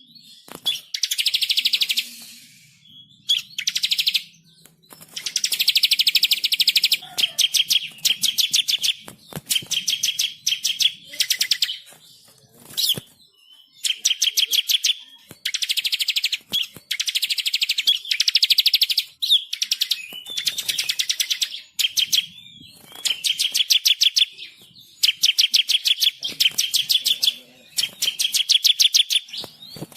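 Songbirds chirping in fast trills: bursts of one to two seconds of rapidly repeated high notes, again and again with short pauses between.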